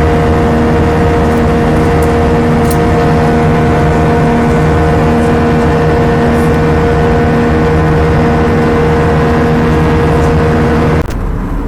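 Airbus A320 cabin noise: the jet engines and airflow running loud and steady, with a constant whine of several held tones over a low pulsing drone. The sound drops off suddenly near the end.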